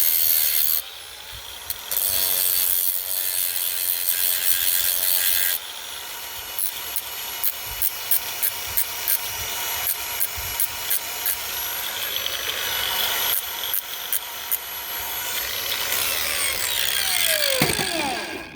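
Angle grinder with a heavy-duty cutting disc cutting through grade 5 steel threaded rod: a loud, hissing grind that dips briefly about a second in. Through the middle a regular tick comes about twice a second. Near the end the disc winds down, falling in pitch.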